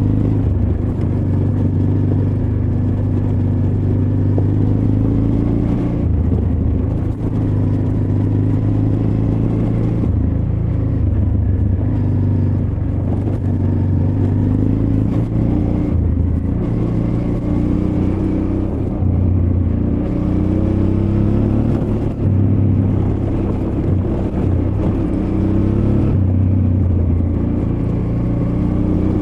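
Honda Transalp XL600V's V-twin engine running under changing throttle while riding off-road, its pitch rising and falling repeatedly.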